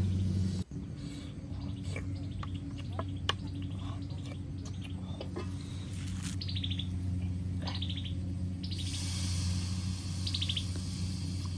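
Birds singing: short, rapid trills that fall in pitch, repeated every second or two over a steady low hum. About nine seconds in a steady hiss joins them as water is poured from a kettle into a wok.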